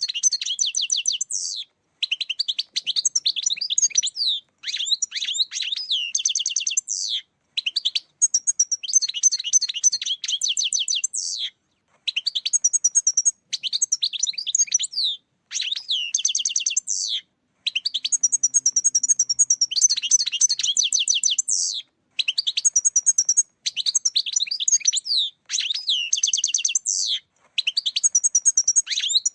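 European goldfinch song: fast twittering phrases, each one to three seconds long, with short pauses between them. It is a goldfinch call track of the kind played to lure goldfinches for catching.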